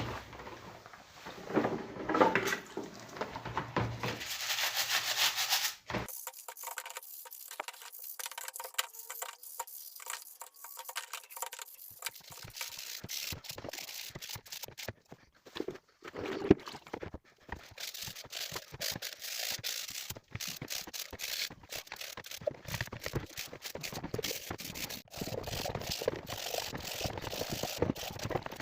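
Irregular rattling, scraping and clicking of hand work on small metal parts, changing character every few seconds.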